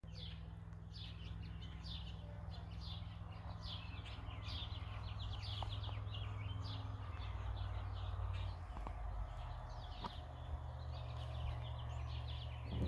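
Birds calling over and over, short downward-sliding chirps about two a second, over a low steady rumble.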